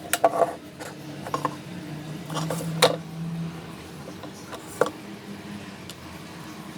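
Several sharp, irregular clicks and knocks of an electric kettle's plastic and metal parts being handled, over a faint low steady hum.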